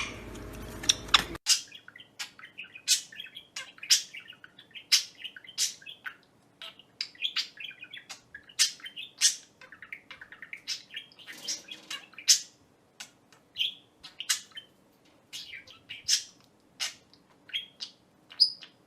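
Pet parrot chirping: a long run of short, sharp, high-pitched chirps, one to three a second, some with brief warbling between them.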